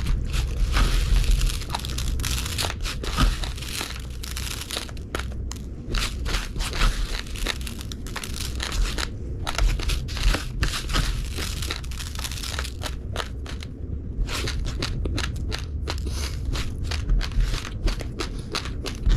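Raw rice grains being chewed close to the microphone: a dense, irregular run of sharp crunches and crackles over a low steady hum.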